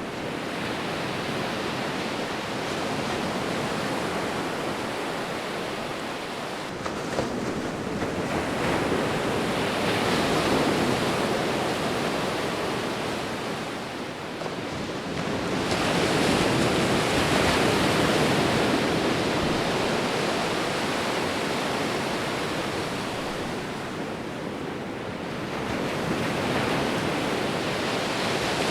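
Sea waves rolling onto a beach: a steady wash of surf that swells and ebbs, with the loudest surges about ten and about seventeen seconds in.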